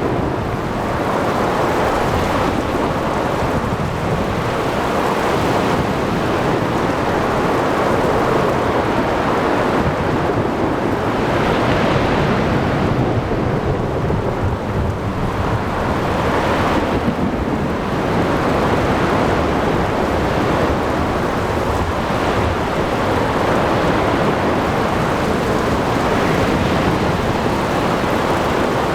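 Thunderstorm at sea: steady heavy rain and surf with wind, under rolling thunder that swells twice near the middle.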